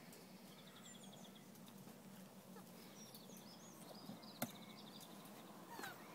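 Faint garden birdsong, high chirps and short trills, over a low steady hum, with a single sharp click about four seconds in.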